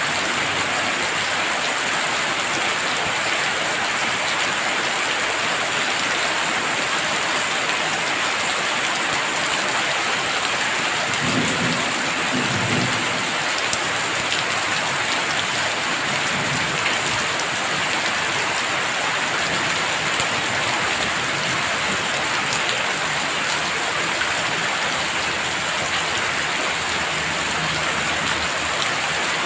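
Heavy rain falling steadily, with a low rumble of thunder a little before halfway through.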